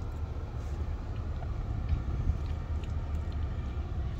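Low, steady rumble of a 2010 Lexus ES 350's 3.5-litre V6 idling, heard from inside the cabin, with a few faint clicks.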